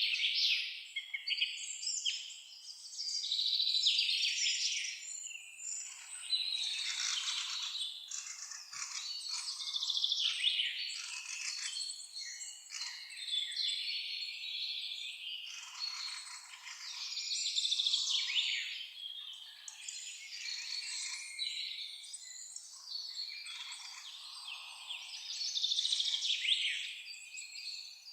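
A chorus of songbirds chirping and singing, many calls overlapping. The calls grow louder and softer every few seconds.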